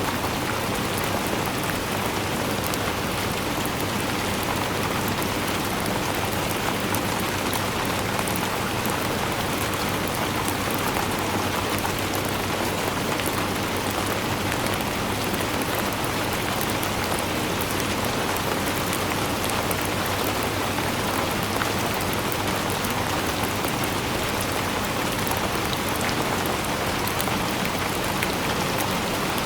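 Steady rainfall, a dense even hiss with fine scattered drop ticks, unchanging throughout.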